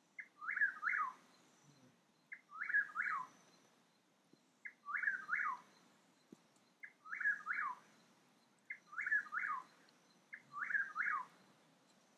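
A bird repeating the same short song phrase over and over, six times, about every two seconds. Each phrase is a faint short note followed by two quick sweeping notes that fall away at the end.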